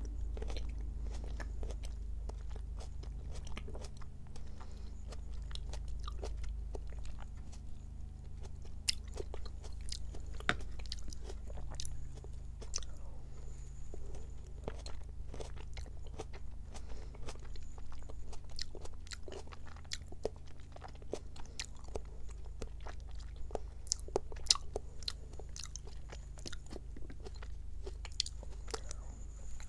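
Close-miked chewing of firm konjac jelly: wet, squishy mouth sounds with many sharp clicks throughout.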